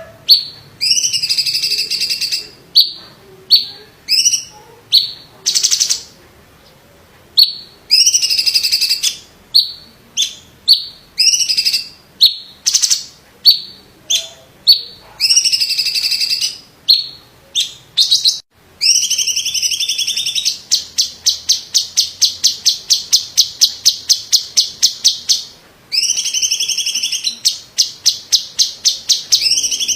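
Cucak cungkok leafbird singing loud, sharp repeated phrases high in pitch with short gaps between them. Past the middle the song runs into a fast even trill of about six notes a second for some five seconds, then the phrases resume.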